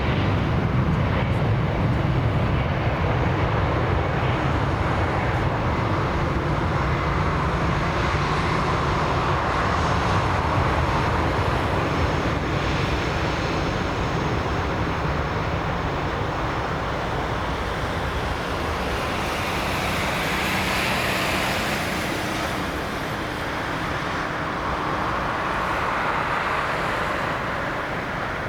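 Jet airliner engines, a steady rumble that slowly fades as the aircraft moves away.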